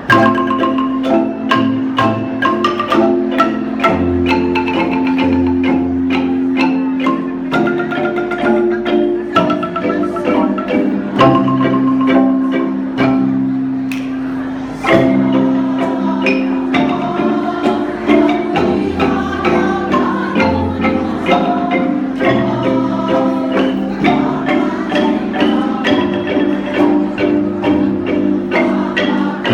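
Kolintang ensemble of wooden xylophones playing, with fast rolled notes over a sustained lower part; the music gets suddenly louder about halfway through.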